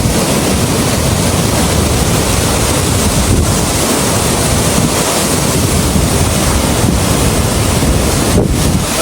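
A loud, steady rush of water with wind buffeting the microphone.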